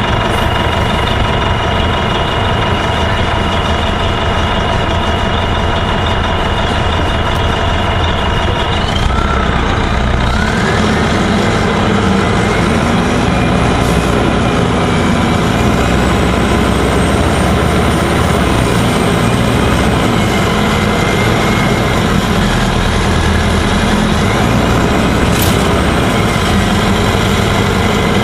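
Gillig Phantom transit bus running, its engine and drivetrain giving a steady drone with a whine that holds, then rises about nine seconds in. A couple of sharp clicks come through later on.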